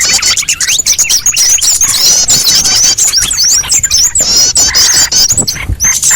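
Bird-lure recording of a flock of small birds calling at once: a dense, continuous chatter of rapid high chirps, sweeping squeaky notes and sharp ticks, with some lower buzzy calls.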